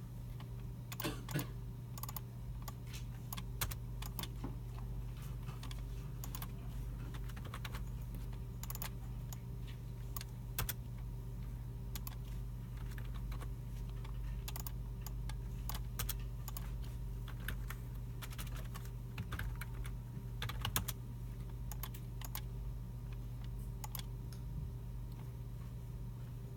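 Several people typing on computer keyboards and clicking mice in a computer room: scattered, irregular keystrokes and clicks, a few sharper ones standing out. Under them runs a steady low hum.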